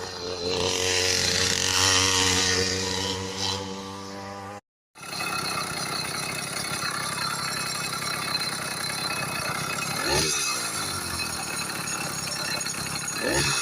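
80cc two-stroke motorized-bicycle engine running with a steady note. It cuts out for about half a second about a third of the way in, then runs on steadily, with a couple of short falling sounds in the last few seconds.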